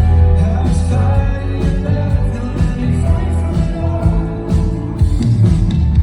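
Live band music: a pop song played with a strong, steady bass and sustained chords, with a voice singing over them.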